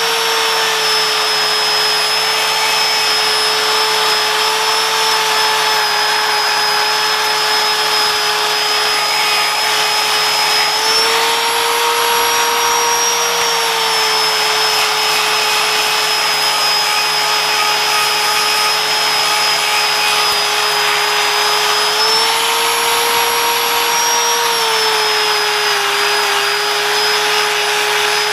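Power tool spinning a fibre-plastic rust-stripping pad, grinding rust off Nissan Xterra brake parts: a steady, loud motor whine whose pitch rises slightly twice, about a third and then three quarters of the way through.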